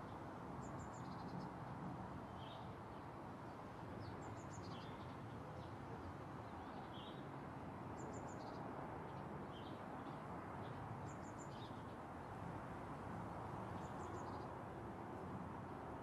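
Small birds chirping, short high chirps about once a second, over a steady outdoor background hiss.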